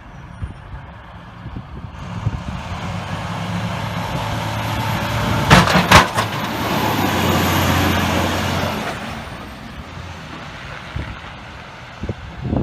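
A snow plow truck drives past, its engine and the rush of the plow through snow growing louder, peaking in the middle and fading away. Two sharp bangs come close together near the middle, as it goes by.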